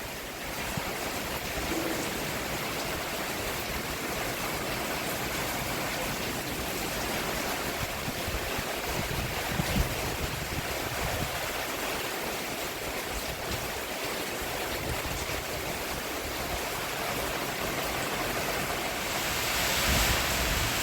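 Steady rain falling on a roof: an even rushing hiss, with a single louder drop or knock about ten seconds in.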